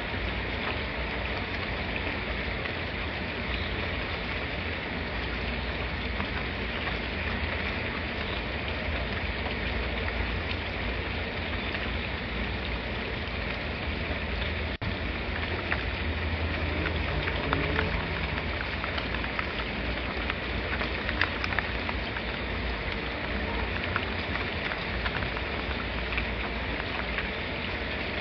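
Steady rain falling, with sharper ticks of individual drops more frequent in the second half and a brief dropout about halfway.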